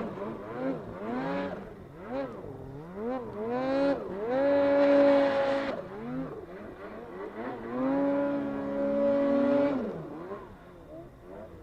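Snowmobile engine revving up and down in quick blips, twice held steady at high revs for a second or two, then dying away near the end.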